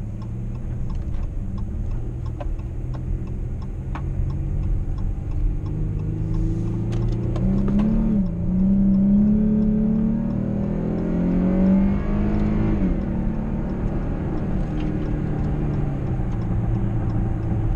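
2015 Dodge Charger AWD's V6 engine heard from inside the cabin, pulling hard under acceleration. The engine note climbs, dips briefly at an upshift about eight seconds in, climbs again, then falls away near thirteen seconds as the throttle is lifted.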